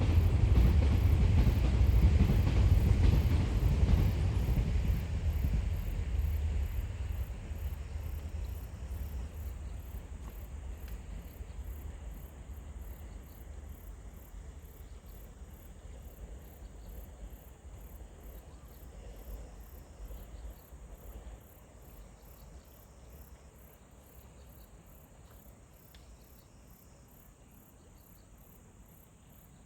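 A low rumble, loudest in the first few seconds, dies away slowly over about twenty seconds, leaving insects chirping in a steady, evenly pulsing chorus.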